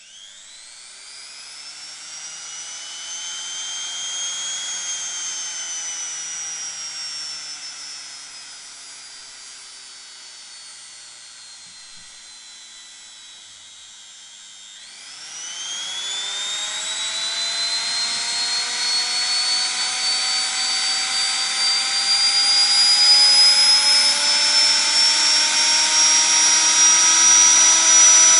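Washing machine motor run on a speed controller, whining as it speeds up. Its pitch climbs for the first few seconds, then sinks slowly as it slows, and from about halfway it speeds up again and keeps rising to a louder, high whine near the end.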